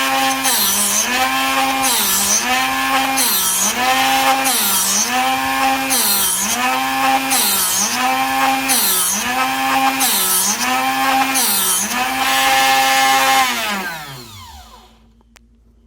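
Drill Doctor 750X sharpener's motor grinding a drill bit, its pitch dipping in a regular rhythm about every second and a half as the bit in the chuck is turned against the sharpening wheel. Near the end the motor is switched off and winds down to a stop.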